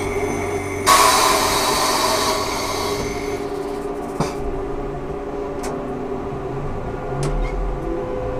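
Ikarus 280T trolleybus heard on board: a steady drone with faint humming tones from its running gear and electrical equipment. About a second in, a loud compressed-air hiss lasts roughly two and a half seconds, followed by a sharp click and a few lighter ticks.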